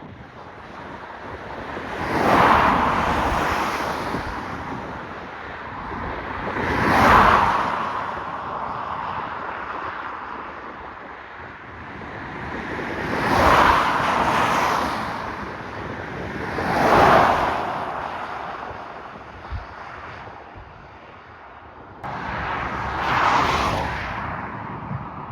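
Road vehicles passing close by one after another, five passes, each a rising and falling whoosh of tyre and engine noise.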